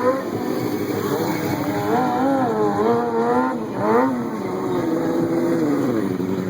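A stunt vehicle's engine held at high revs, its pitch wavering up and down as the throttle is worked. It climbs at the start and drops briefly about four seconds in.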